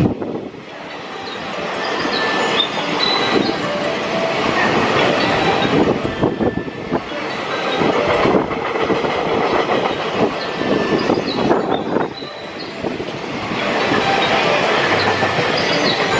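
Freight train passing close by: wagon wheels clattering over rail joints in a continuous rattle, with short high squeaks from wheels on the rails.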